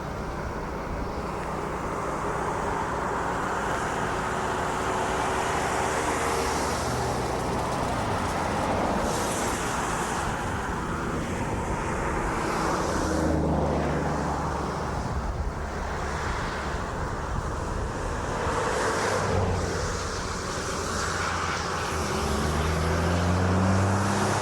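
Road traffic: a steady wash of car engine and tyre noise, with a vehicle's engine coming up more clearly about halfway through and rising in pitch as it accelerates near the end.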